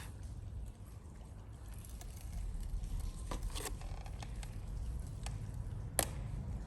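Campfire wood crackling with a few scattered sharp pops, the loudest about six seconds in, over a steady low rumble.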